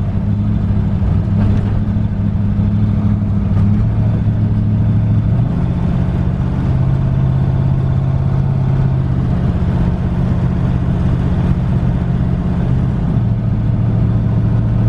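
Twin-turbo LS V8 in a Fox-body Mustang running steadily through its exhaust. Its pitch steps up about five seconds in and drops back near the end.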